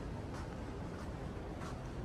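Steady low background rumble and hiss, with a couple of faint soft clicks.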